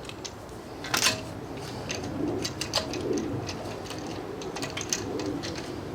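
Scattered sharp clicks and taps of hand work on the brake, the loudest about a second in, with a bird cooing several times in the background.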